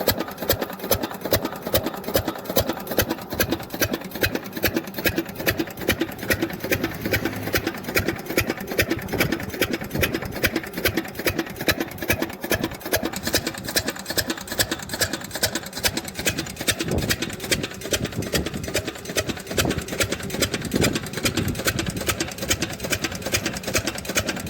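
Diesel engine running steadily, driving a farm irrigation pump, with a fast, even chugging rhythm.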